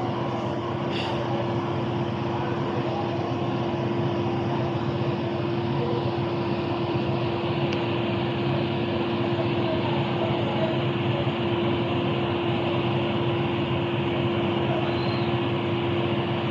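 A steady mechanical drone with a constant low hum, unchanging throughout, like an engine or motor running.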